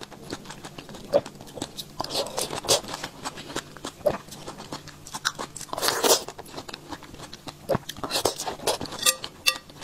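Person biting and chewing fresh strawberries: soft wet crunches and mouth clicks, with bigger bites about two and a half and six seconds in.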